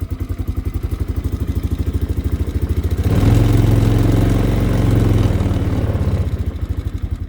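Polaris Sportsman 500 H.O.'s single-cylinder four-stroke engine idling cold on choke. About three seconds in it is revved up for a couple of seconds, then drops back to idle. The owner feels the cold idle sounds like it wants to die out.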